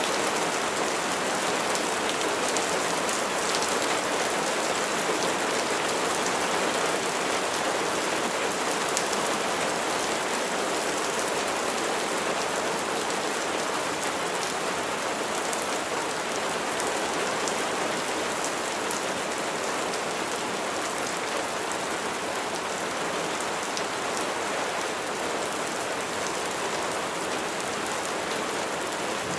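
Steady rain falling, an even dense patter of raindrops with fine individual drop ticks, unchanging throughout.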